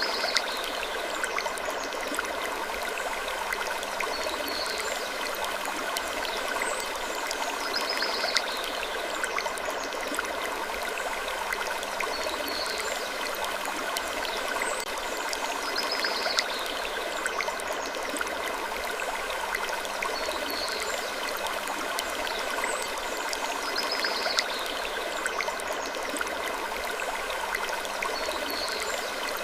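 Looped sleep-ambience track: a steady, even rushing like running water, with a faint high falling sound that returns about every four seconds.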